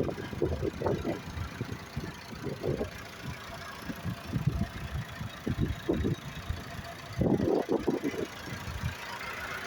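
Massey Ferguson 283 tractor's diesel engine running, its sound uneven and rising and falling in level, louder for a moment about seven seconds in.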